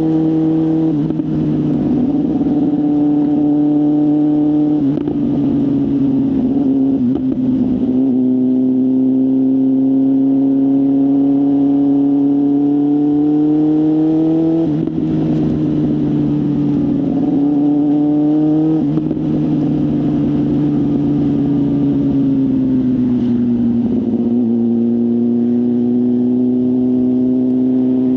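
BMW S1000RR inline-four with a full exhaust system, running under moderate load. The engine note climbs slowly and drops sharply at gear changes about halfway and two-thirds through, then eases down and holds steady near the end.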